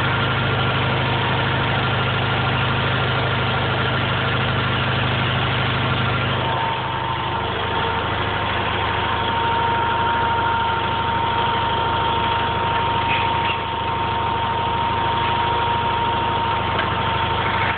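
A garden tractor engine running steadily at idle. About six and a half seconds in its note changes and a thin steady whine comes in above it.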